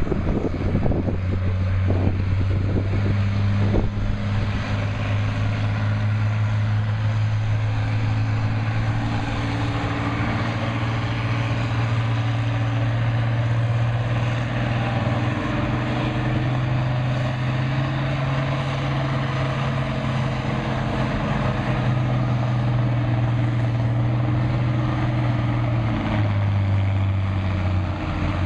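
Farm stock pulling tractor's diesel engine running hard and steadily. Its note rises a little partway through and drops back near the end.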